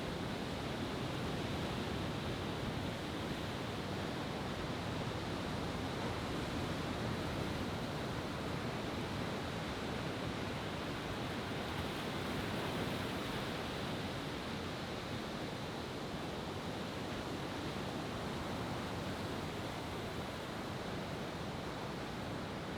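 Steady rushing noise of surf and wind, with no firework bursts.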